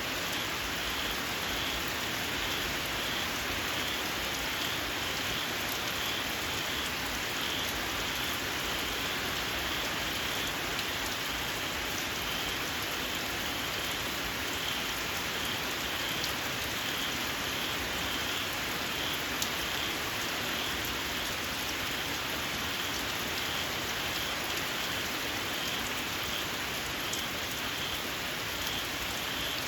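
Steady rain falling, with small frogs giving a repeated series of short, high-pitched squealing calls.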